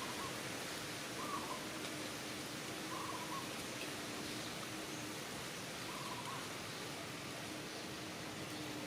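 Several short, faint animal calls, a second or two apart, over a steady hiss, with a faint steady hum underneath for much of the time.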